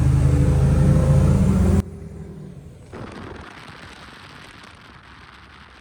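Truck engine running at a steady idle, a deep even rumble that cuts off abruptly about two seconds in, leaving only faint background hiss.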